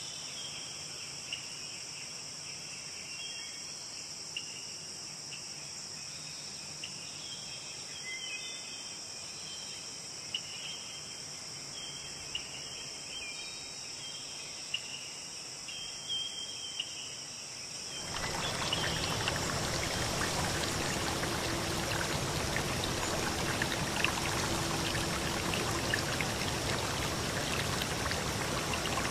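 Steady high insect chirring with scattered short chirps, which about two-thirds of the way through cuts abruptly to the louder, even rush of a river stream.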